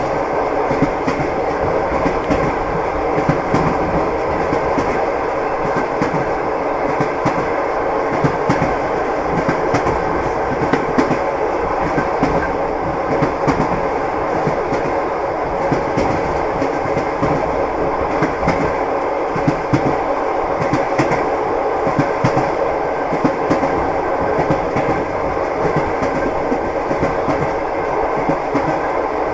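Passenger train wheels clattering over the rails, with short knocks scattered through a steady running noise of the moving carriage.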